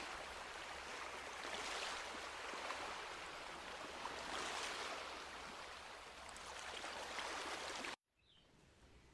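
Small sea waves breaking and washing up a sandy beach, swelling and easing every few seconds. The sound cuts off suddenly near the end.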